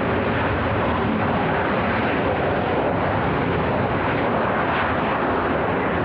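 Jet airliner engine noise, a steady even rushing sound that neither swells nor fades.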